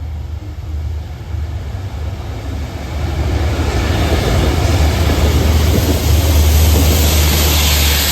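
Class 66 diesel freight locomotive coming through the station, its EMD two-stroke diesel engine giving a low drone under a rushing rail noise that grows steadily louder, then cuts off suddenly at the end.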